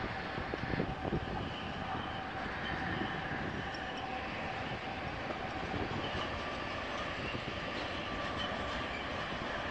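Steady running noise of a train rolling along the track, heard on board, with faint thin high tones over it.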